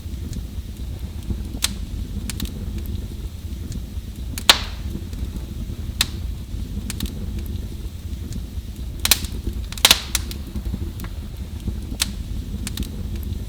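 Wood fire burning with a steady low rumble and scattered sharp crackles and pops, the loudest about four and a half seconds in and a cluster a little past halfway.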